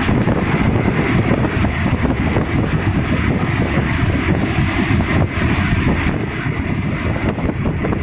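Steady rumble of a moving passenger train heard at an open carriage window, with wind buffeting the microphone.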